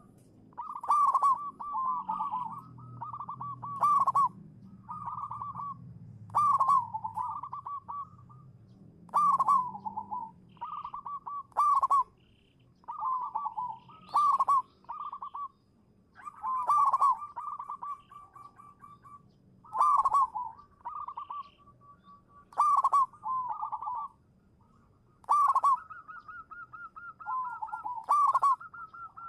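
Zebra dove (perkutut) cooing its song: short phrases of quick staccato notes, repeated every one to two seconds.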